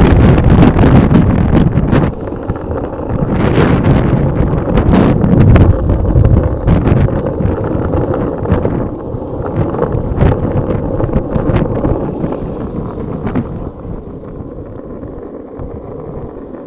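Strong wind buffeting the microphone: a loud low rumble that swells and drops in gusts, with scattered short clicks, easing somewhat near the end.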